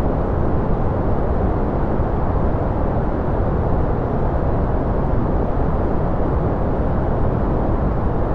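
Steady, unchanging white noise: an even, deep rush with little high hiss, with no breaks or changes.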